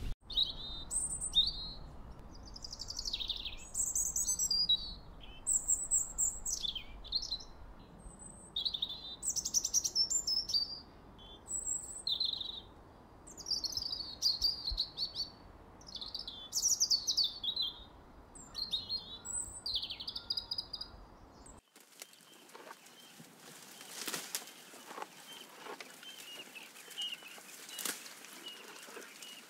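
European robin singing: short, varied high phrases of falling whistles and trills, with brief pauses between them. About twenty-two seconds in the song stops abruptly, leaving a quieter background with scattered faint clicks.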